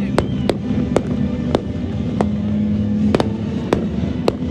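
Fireworks going off: a string of sharp cracks, about eight in the span at uneven spacing, each a short report.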